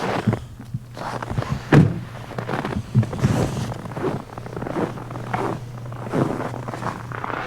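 A series of irregular thumps and knocks, with a steady low hum underneath.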